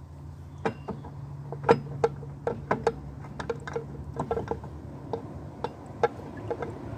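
Irregular light metallic knocks and clicks as the Suzuki GS850's engine side casing is tapped and worked off its dowel, several a second, with a steady low hum underneath.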